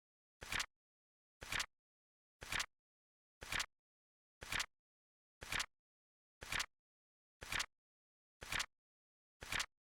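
Flip clock sound effect: a short flap-click every second, evenly spaced like a steady tick, each click rising in two quick steps.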